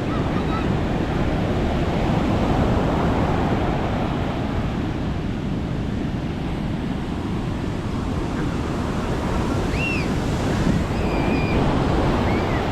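Sea surf breaking and washing onto the beach in a steady rush, with wind buffeting the microphone. A few faint short high chirps come in near the end.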